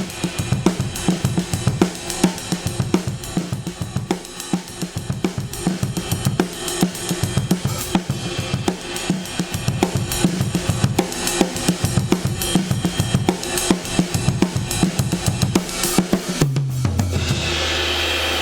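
A recorded drum kit plays a busy groove of kick, snare, hi-hat and cymbals through a DBX 119 compressor set to a heavy ratio. Near the end a run of low tom hits steps down in pitch, and then the playback cuts off abruptly.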